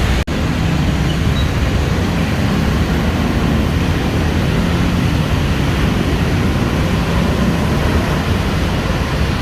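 Steady traffic noise: a dense rumble of vehicles with road hiss, broken by a brief cut just after the start.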